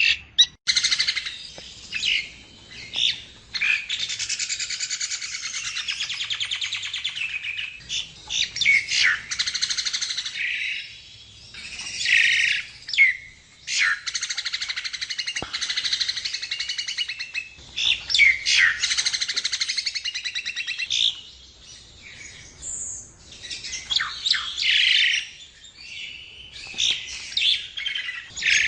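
Nias hill myna singing: long runs of rapid chattering notes broken by sharp, gliding whistles, with short pauses between phrases.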